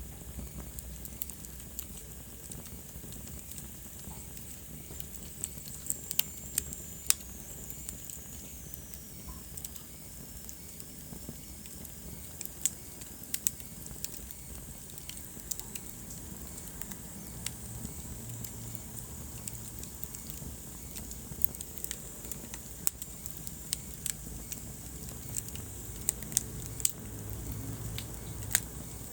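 Wood fire burning in a fireplace, crackling with many small snaps and a few louder pops over a steady low hiss and rumble. A faint high whistle slides down in pitch between about six and ten seconds in.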